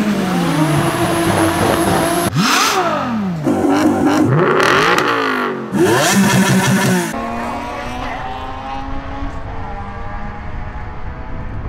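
Modified Nissan Skyline R34 engine revving hard several times, its pitch climbing and dropping in quick sweeps. About seven seconds in, the revving stops and it gives way to quieter, steadier engine running.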